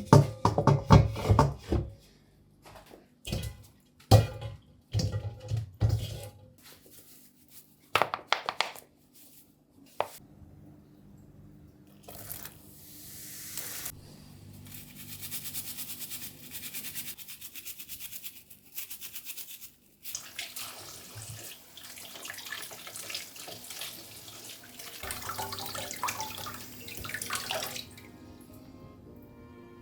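A few sharp knocks and clatters, then a tap running into a sink for about fifteen seconds before it is turned off near the end.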